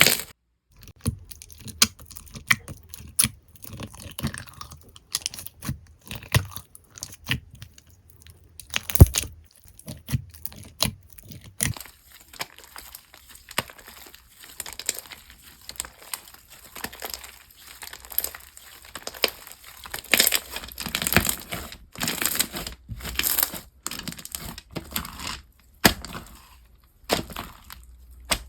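Slime being squished and pressed by hand, making irregular sharp crackles and clicks, with one louder snap about nine seconds in and denser crackling from about twelve seconds on.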